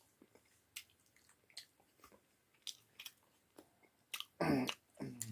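A person chewing food close to the microphone, with many short wet mouth clicks and smacks. Near the end there is a brief, louder voiced throat sound.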